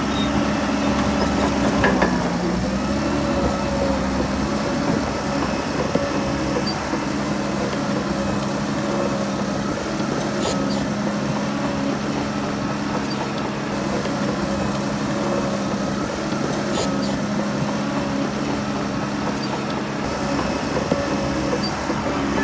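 Heavy diesel engine of earthmoving machinery running steadily, its pitch dipping briefly about two seconds in as it takes load. A few sharp metallic clicks come around the middle and later on.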